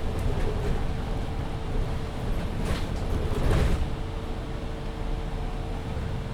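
Inside an MAN Lion's City 19C EfficientHybrid articulated city bus: a steady low rumble with a thin, steady whine over it, and two short bursts of hiss around three seconds in, after which the sound eases a little.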